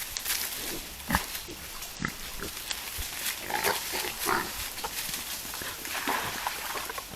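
Wild boar grunting in short low snuffles, among scattered short clicks and rustles.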